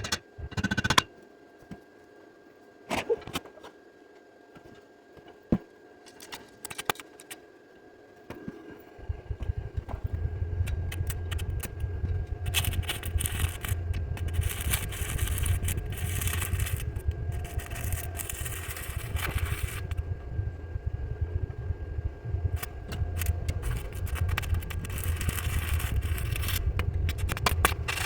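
A few metal clanks and knocks, then about nine seconds in an engine starts and runs steadily with a low rumble.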